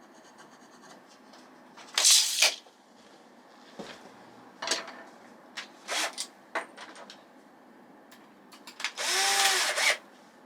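Power drill run in several short bursts of about half a second, with a longer burst of about a second near the end in which the motor's pitch rises and falls.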